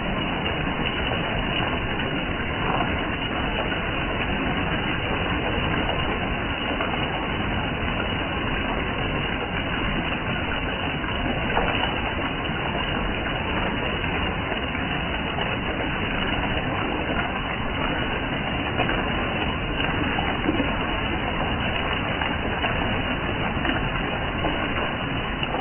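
Rain falling steadily, an even rushing noise that holds level throughout.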